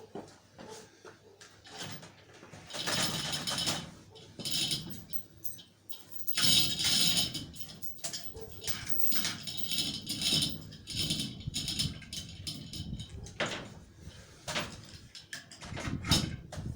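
Winch lowering a VAZ 2104 engine into the engine bay, its mechanism rattling in several bursts of a second or two each.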